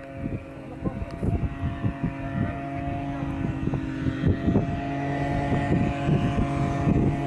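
Engine of a homemade, farmer-built light aircraft running with a steady hum and irregular popping, growing gradually louder.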